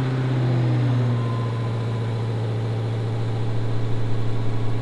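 Dodge Challenger SRT Hellcat Redeye's supercharged 6.2-litre HEMI V8 idling steadily just after start-up, easing down slightly about a second in. It is running on the black key, the mode that holds back the full 797 horsepower.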